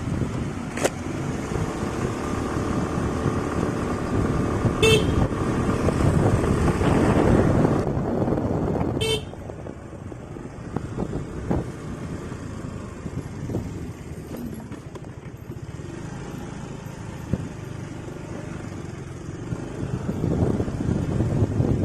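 Aprilia SR150 scooter's single-cylinder engine running on a rough road, with wind and road noise. A horn sounds during the first several seconds, and the running noise drops noticeably about eight seconds in.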